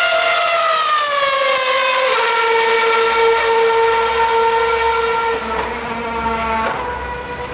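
2013 Formula One car's 2.4-litre V8 engine at high revs, its pitch falling over the first two seconds, then holding a steady high note for about three seconds before easing off and getting a little quieter near the end.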